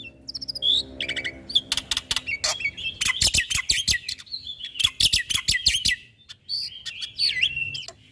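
Jalak putih (black-winged myna) singing a fast, busy song of harsh clicks and chattering notes mixed with whistled phrases, with a short pause about six seconds in.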